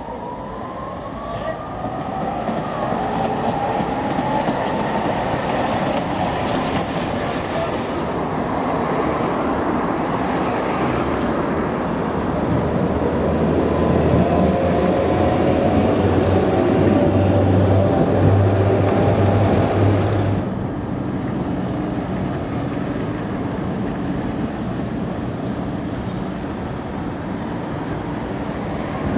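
Electric tram passing on its rails, with a rising whine from its traction motors near the start, then steady wheel-on-rail rolling that grows louder. The noise drops off suddenly about twenty seconds in.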